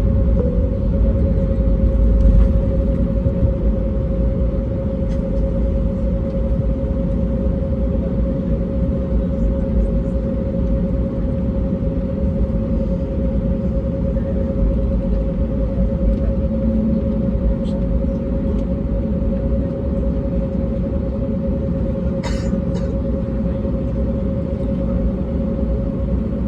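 Airbus A320neo cabin noise in flight: a steady rumble of engines and airflow with one steady droning tone over it. A short click near the end.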